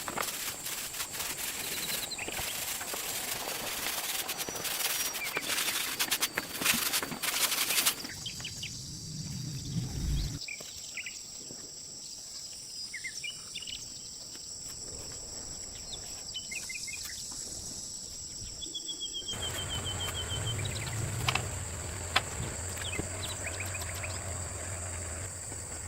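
Outdoor ambience: birds chirping and a steady high insect drone. In the first third there are many sharp knocks and scrapes, the loudest sounds.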